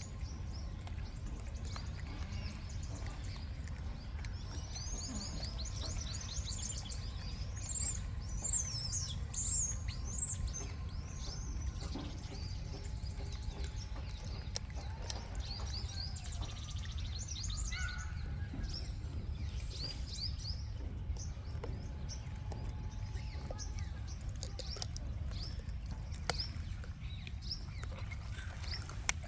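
Small birds chirping and tweeting in quick high notes, thickest and loudest several seconds in and then scattered, over a steady low rumble.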